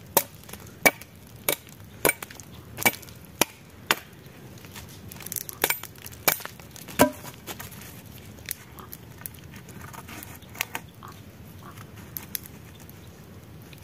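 Wood being chopped with a blade: sharp strikes at a steady pace of nearly two a second, then a few scattered blows, the loudest about seven seconds in, and fainter knocks near the end.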